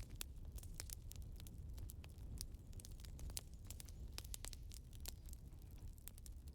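Wood fire crackling: many irregular small pops and snaps over a low, steady rumble.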